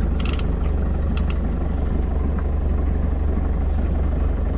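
Small boat's engine idling with a steady low, pulsing hum. Two short bursts of rapid clicking come near the start and about a second in.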